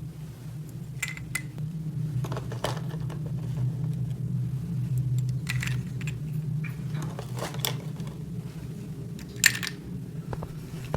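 Small plastic toy pieces being handled and set down: a scattering of light clicks and clinks, the sharpest about nine and a half seconds in, over a steady low hum.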